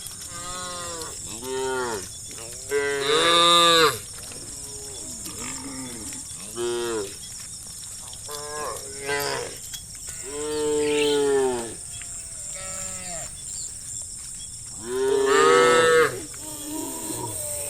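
Several cattle mooing one after another, short and long calls overlapping, with three louder, longer moos about three, ten and fifteen seconds in.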